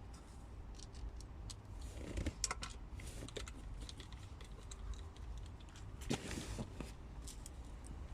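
Scattered light clicks and taps of hand tools and parts being handled during work on a car's oil pan, with two louder knocks about two and a half and six seconds in, over a steady low hum.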